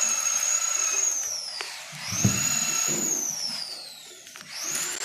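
A small high-speed power tool, drill-like, run in bursts while working on a refrigerator compressor. Its high whine winds up, holds, then falls in pitch as it spins down when released, twice, starting up again near the end, with a few low knocks in between.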